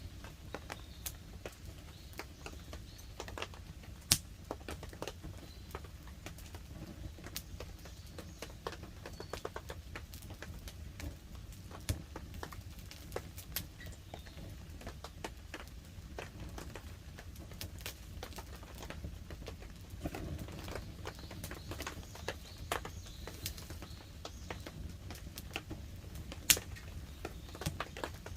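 Wood campfire crackling with frequent sharp snaps and two louder pops, about four seconds in and near the end, over light rain pattering on a tarp overhead.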